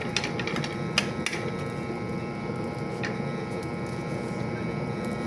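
Cooking fire under flatbreads being toasted: a steady low rushing with a few sharp crackles, the loudest about a second in.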